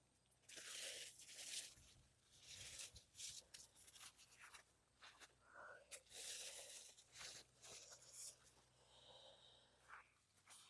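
Faint, irregular rustling and crackling of tomato plants being handled while cherry tomatoes are picked by hand, with a few short snaps.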